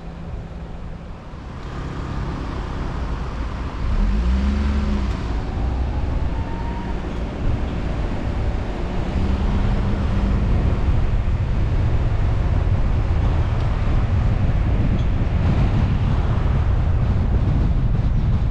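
Car driving: engine and road noise with wind on the microphone. It gets louder about four seconds in, the engine pitch briefly rises, and then it settles into a steady low rumble.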